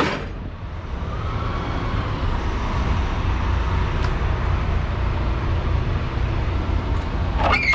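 Semi truck's diesel engine idling with a steady low rumble, heard inside the cab.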